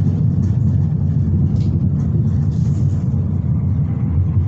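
Interior noise of a moving Berlin S-Bahn class 485 electric train: a steady low rumble of wheels on the track, with light ticks during the first three seconds.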